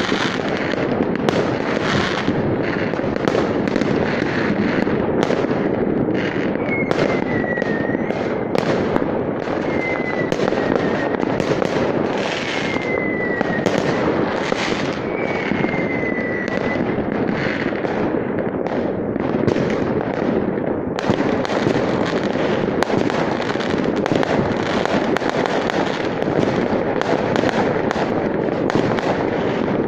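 Many fireworks going off at once: a dense, unbroken crackle of bangs and pops. Four short whistles, each falling in pitch, come through near the middle.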